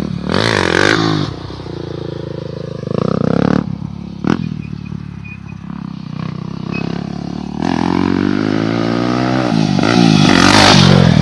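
Motocross bike engines revving hard and backing off on the throttle in repeated bursts, with one sharp knock about four seconds in. The loudest rev, rising in pitch, comes near the end.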